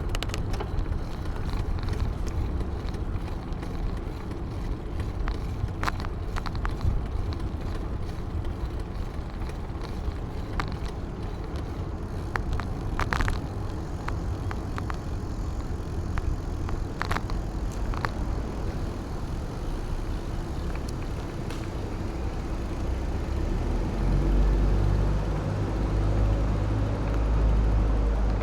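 Low rumble of wind buffeting the microphone and road noise while cycling, with scattered sharp clicks; the rumble grows louder over the last few seconds.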